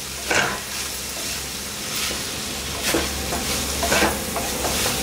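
Minced mutton and ground spices sizzling as they fry in an aluminium kadhai, stirred with a wooden spatula that scrapes the pan, with a few sharper scrapes. The spices are being roasted together with the mince.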